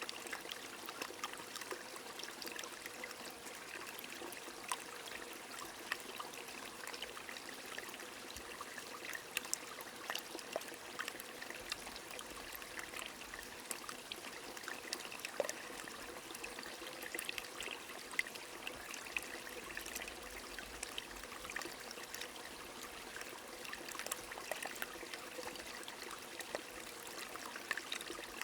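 A small stream running steadily over stones, with light rain falling: many small, irregular drop ticks over the even rush of water.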